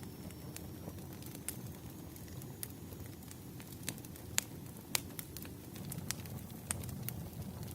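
Wood fire crackling: irregular sharp pops and snaps of burning firewood over a low steady rumble, with a few louder snaps in the middle.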